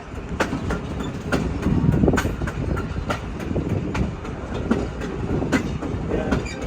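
Freight train cars rolling past at speed, their wheels clacking over rail joints a few times a second above a steady low rumble.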